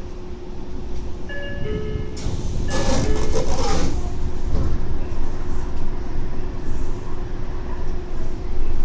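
Tokyo Metro 03 series subway train at the platform: a steady electrical hum and low rumble, with a short hiss about two seconds in that fits the doors working, and the sound growing louder toward the end.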